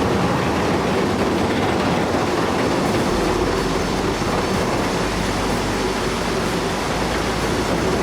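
Crawler excavator running: a steady diesel engine with the metallic rattle and clank of its crawler tracks.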